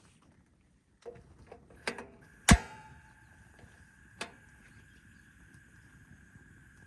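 Four sharp clicks or knocks, the loudest about two and a half seconds in, then a faint steady high tone.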